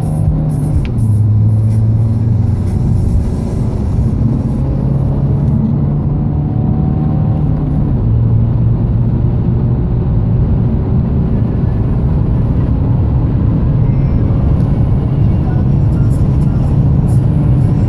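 Audi A4 B8 2.0 TDI four-cylinder turbodiesel engine pulling hard under full acceleration, with a steady, loud drone.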